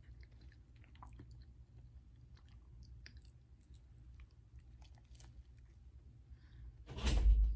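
A person chewing food close to the microphone, with small wet mouth clicks. About seven seconds in comes a brief, much louder burst of noise.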